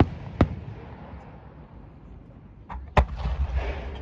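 Fireworks shells bursting: a sharp bang about half a second in, then a louder bang near the end followed by a low rumble.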